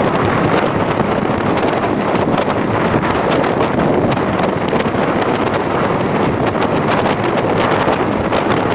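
Wind buffeting the microphone, a steady, loud rush with crackling, as on a moving ride.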